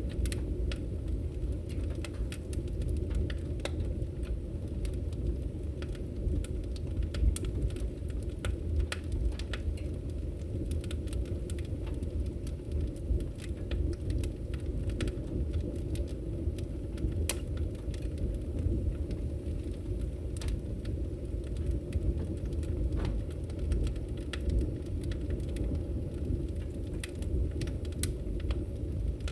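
Wood fire burning in a fireplace: a steady low rumble of the flames with frequent sharp pops and crackles from the logs.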